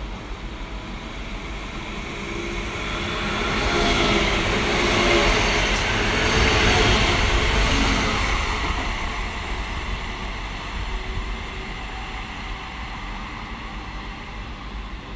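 Electric passenger train passing through the station without stopping. The rush of wheels on rails and running noise builds as it approaches, is loudest from about four to eight seconds in as the carriages go by, then fades as it goes away.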